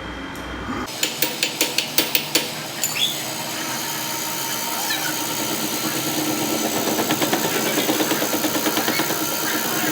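A quick run of about eight sharp metal-on-metal knocks, roughly six a second, then a power tool running steadily with a fast pulsing beat. This is metalwork on a hydraulic cylinder's pins.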